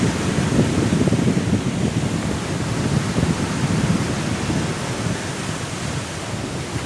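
Sea surf and strong wind making a steady rushing noise, a little fuller in the first few seconds before easing slightly.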